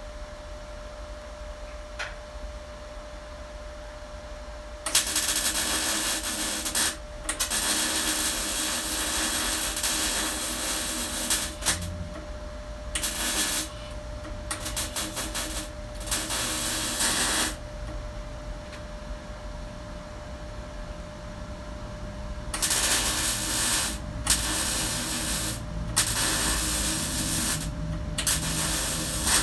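MIG welder arc crackling in repeated bursts, each from under a second to about four seconds long, with short pauses between them, over a steady low hum.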